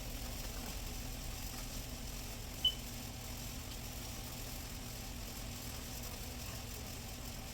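An engine idling with a steady low hum. A single short high-pitched beep sounds about a third of the way in.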